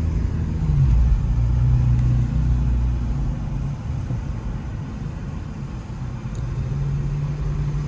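Muffler-deleted Infiniti Q50's V6 exhaust droning at low city speed. The engine note drops about a second in and climbs back up near the end.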